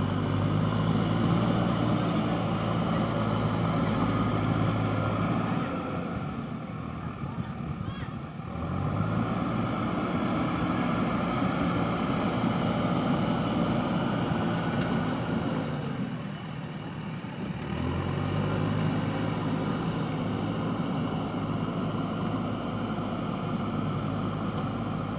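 JCB backhoe loader's diesel engine working hard under hydraulic load. It eases down to lower revs about six seconds in and again about sixteen seconds in, then climbs back to high revs each time as the arm and bucket work.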